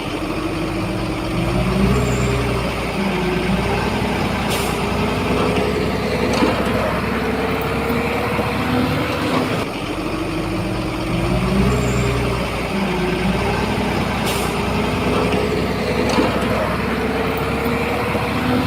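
Heavy diesel earthmoving machinery working, the engine note rising and falling as it takes load, with a couple of sharp clacks.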